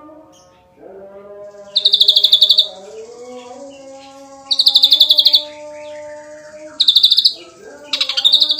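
Ashy drongo singing loud, rapid trills of about ten notes a second, in bursts under a second long repeated every two seconds or so. Lower, steadier held tones run underneath.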